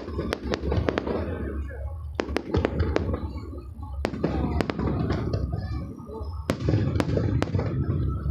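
Fireworks going off in rapid clusters of sharp cracks and pops, with short lulls between volleys.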